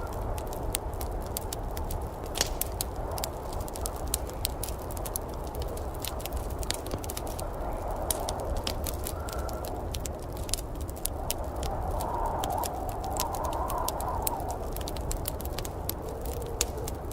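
Wood fire in a fireplace crackling, with frequent sharp pops, over a steady low rumble.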